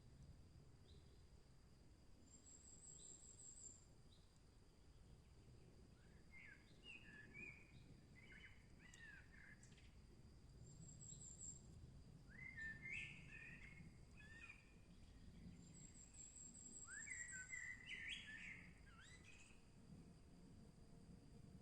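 Faint forest birdsong: several birds singing short, quick phrases in bursts a few seconds apart, with a high thin trill repeating now and then, over a low steady background hiss.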